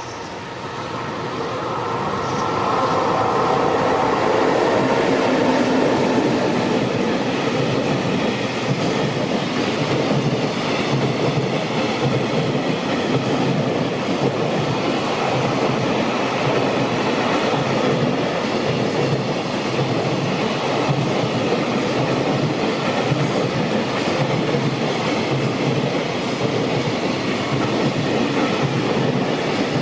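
A JR Freight EF210 electric locomotive and its container freight train passing close by. It grows louder over the first few seconds as the locomotive goes past, then the wagons' wheels clatter steadily over the rail joints.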